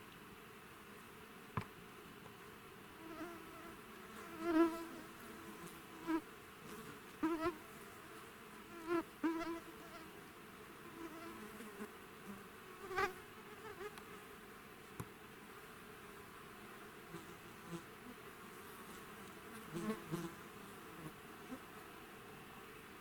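Flies buzzing close past the microphone again and again, each pass lasting about a second with the pitch bending as it comes and goes.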